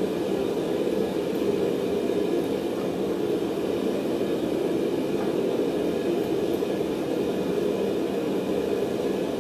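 Forge running: a steady, even rushing noise with no hammer blows.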